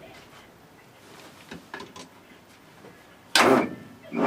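Old Land Rover engine being turned over by its starter motor. After a few faint clicks, slow, labouring cranking begins near the end, each strained turn about a second apart, a sluggishness the owner puts down to too little battery power.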